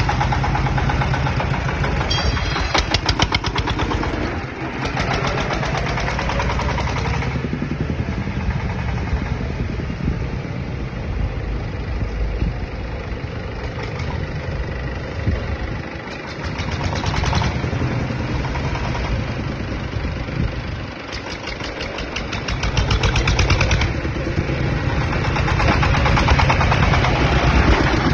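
Four-wheel-drive farm tractor's engine running, rising and falling in loudness several times.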